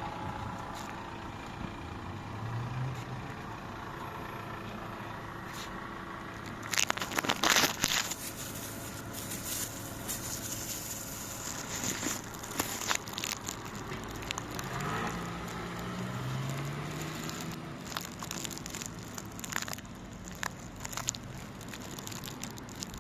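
Yutong bus engine running steadily, with irregular crackling and clicking over it. The loudest cluster of crackles comes about seven seconds in.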